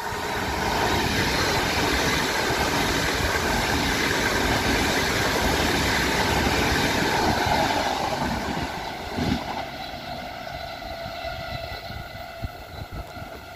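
Tarpaulin-covered freight wagons rolling past on the rails: a steady rush and rumble of wheels that eases and fades over the last few seconds, with a few sharp clacks.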